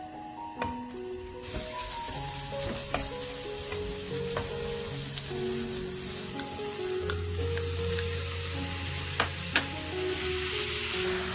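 Sliced onions sizzling in hot oil in a nonstick wok, with a steady hiss that starts about a second and a half in, while a wooden spatula stirs them. The spatula knocks sharply against the pan a few times, the loudest two close together near the end. Background music plays throughout.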